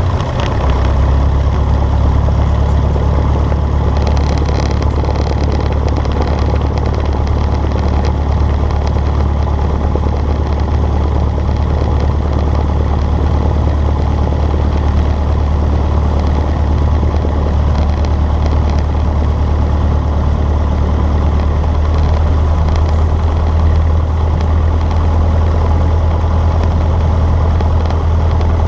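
Cessna 152's four-cylinder piston engine and propeller running steadily, a loud, even low drone.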